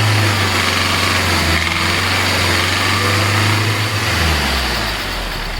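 Hyundai i20 CRDi diesel engine idling steadily after its Delphi injectors were replaced and air-bled. About four seconds in, its low hum drops to a lower note.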